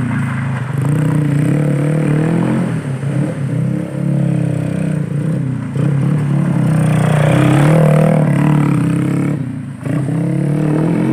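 Small old-style trail motorcycle's engine revving up and down through low-speed riding on dirt, loudest about eight seconds in. The sound breaks off briefly near the end.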